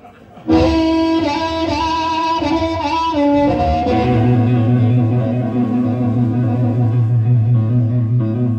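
Live guitar playing: a short melodic line of held notes starts about half a second in, then settles at about four seconds into a steady repeating low riff with notes ringing above it.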